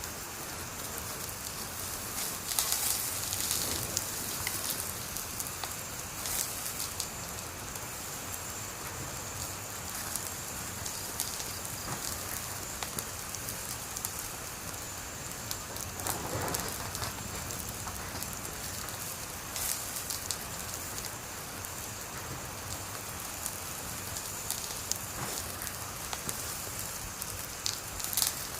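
Wood fire crackling: a steady hiss with frequent sharp pops and snaps, a burst of louder pops about three seconds in and again near the end.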